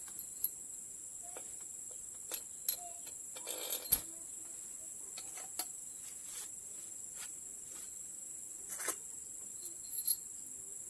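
Scattered light metallic clicks and clinks of hand tools and engine parts being handled, with a short rattling scrape ending in a sharp click about four seconds in, over a steady high chirring of insects.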